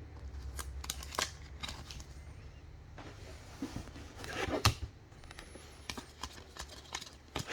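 Trading cards being handled and flipped through: a string of light clicks and slides, with a louder rustle about four and a half seconds in.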